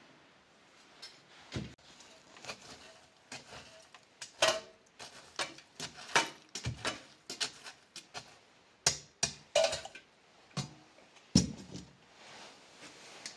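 Irregular clinks and knocks of pots and utensils during cooking, a few with a short ringing tone, the loudest about four and a half seconds in and again near eleven seconds.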